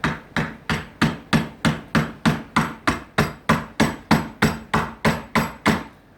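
A small single-bevel hatchet chopping into a block of acacia wood with quick, even strokes, about three a second, hewing the comb blank to rough shape. The strokes pause briefly near the end.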